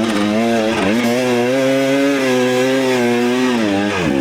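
Dirt bike engine running at high revs under load, its pitch dipping briefly about a second in, then held before falling off near the end as the revs drop.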